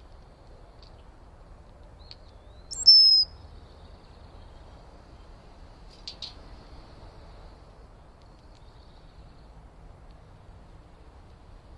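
A bird calls once, loudly, about three seconds in: a quick high sweep dropping into a short, held high whistle. A few faint short chirps follow about three seconds later, over a faint steady hiss.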